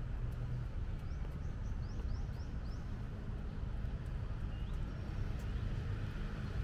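A bird calls a quick run of about six short rising notes, then two more a little later, over a steady low rumble of city traffic.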